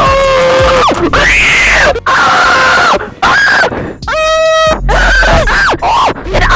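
A person screaming and making weird vocal noises: a string of short, loud cries, some held on one pitch and some sliding down, with brief gaps between them.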